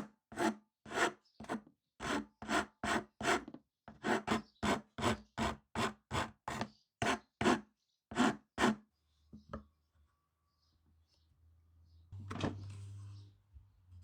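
A file rasping back and forth over wood in steady strokes, about two a second, stopping after about nine seconds. Near the end comes a brief duller scraping noise over a low hum.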